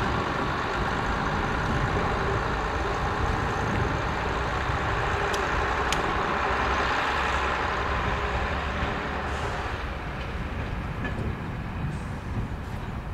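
A heavy diesel engine running steadily, easing slightly in level over the last few seconds, with a couple of sharp ticks about halfway through.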